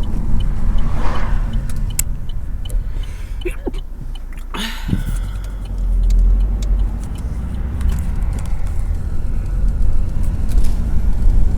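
Low, pulsing wind buffeting inside the cabin of a 2014 Astra Sports Tourer driving above 40 mph with just one window down: wind pressure throbbing through the car over the road noise.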